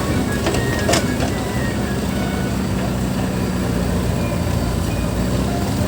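Engine running steadily at a constant pitch, with a short sharp clatter about a second in.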